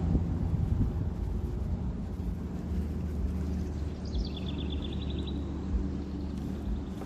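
Steady low outdoor rumble, with a small bird's rapid high trill of about a dozen quick notes a little past the middle.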